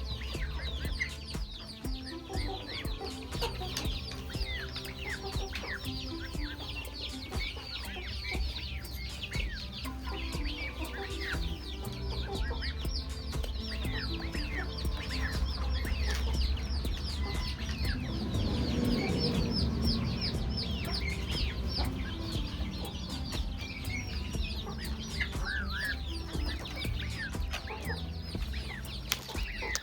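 Chickens clucking, with many short high bird chirps going on over them and a steady low rumble underneath; the calls grow louder for a couple of seconds a little past the middle.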